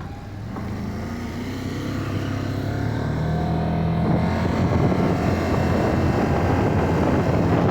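Vehicle engine accelerating, its pitch and loudness rising steadily for about five seconds and then holding at speed.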